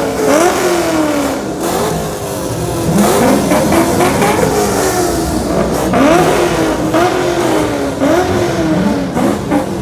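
Many Chevrolet Camaro engines revving at once, each repeatedly blipped so that its pitch shoots up and slides back down, the revs overlapping in a continuous loud chorus.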